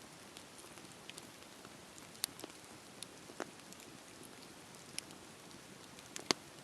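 Wood fire crackling: a soft steady hiss with scattered sharp pops, the loudest near the end.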